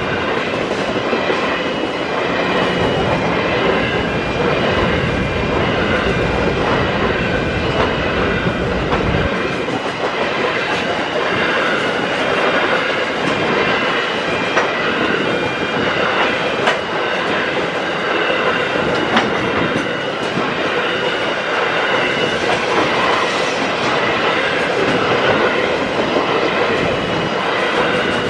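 Freight train of covered hopper wagons rolling past at close range: steady wheel-on-rail noise with clicks over the rail joints. The deep low rumble drops away about nine seconds in.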